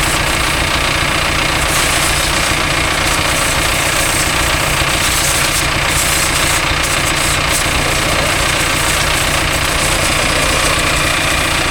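Engine running steadily at idle, with the hiss of a water jet spraying over it.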